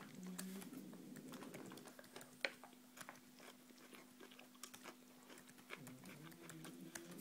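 Faint, irregular key clicks of typing on a MacBook Air keyboard over a faint steady hum.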